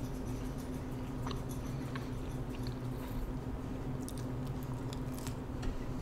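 Close-miked chewing of Pizza Hut pan pizza, with soft wet mouth clicks and a bite into a slice about four seconds in, over a steady low hum.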